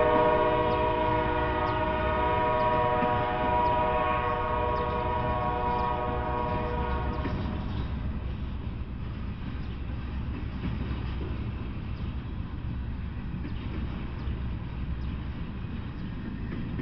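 Locomotive horn sounding one long chord blast over the steady low rumble of a freight train's intermodal cars rolling past. The horn stops about seven seconds in, and the rolling rumble carries on.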